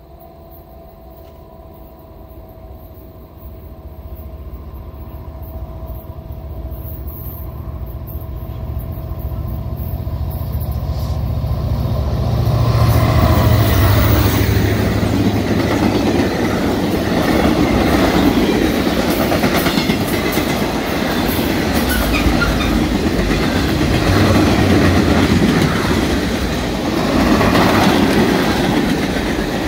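Norfolk Southern diesel freight locomotive approaching, its low rumble growing louder over about twelve seconds. The train then passes close by, and its flatcars and gondolas roll past with loud, steady wheel-on-rail noise.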